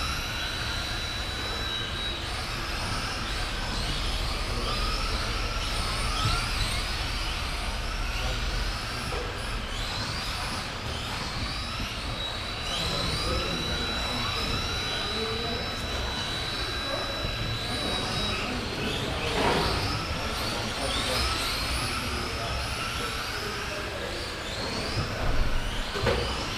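Several RC race trucks' motors whining in overlapping swells, each rising and falling as the trucks accelerate and brake around the track. A thin, steady high tone comes and goes over them.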